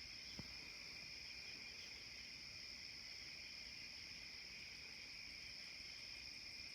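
Faint, steady chorus of night insects: a continuous high trilling at two pitches that never breaks. A faint tick about half a second in.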